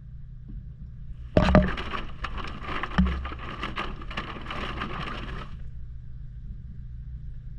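Maytag washing machine running with a steady low rumble, heard from a camera inside the drum. About a second and a half in comes a burst of rattling and knocking lasting about four seconds, with two heavy thumps, one at its start and one about a second and a half later.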